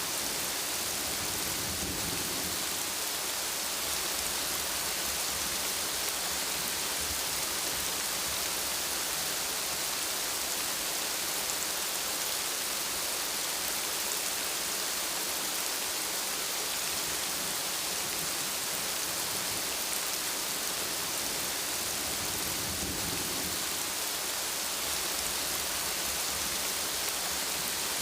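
Steady, heavy rainfall hiss, with a low thunder rumble about two seconds in and another near the end.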